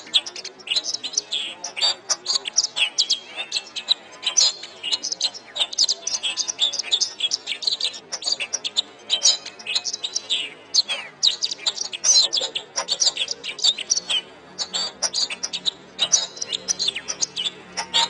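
Domestic canary singing a long, fast run of chirps, trills and whistles, one phrase running straight into the next.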